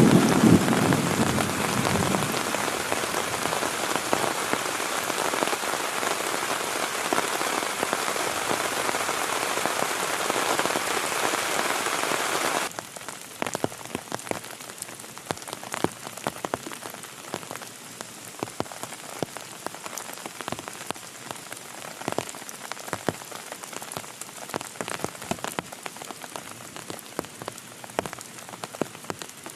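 Heavy rain, with the tail of a thunder rumble dying away in the first couple of seconds. About halfway through, the sound drops abruptly to quieter rain in which separate drops can be heard.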